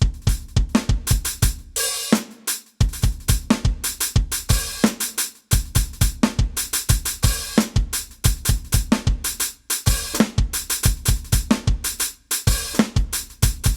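KAT Percussion KT4 electronic drum kit played through one of its preset kit sounds: a rhythmic groove of kick drum, snare, hi-hat and cymbals, with a few short breaks.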